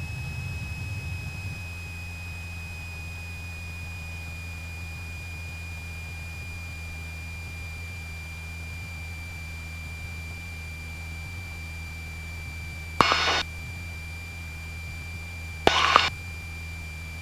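Cessna 172 stall warning horn sounding as one steady high tone over the low drone of the engine, the sign that the airplane is flying at the edge of a stall in slow flight with full flaps. Near the end come two short bursts of static.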